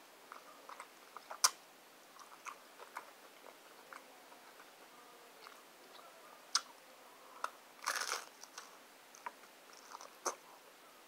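Close-up chewing and biting of a crunchy Doritos Locos taco shell: scattered crisp crunches, the loudest about a second and a half in, and a longer crunch near eight seconds.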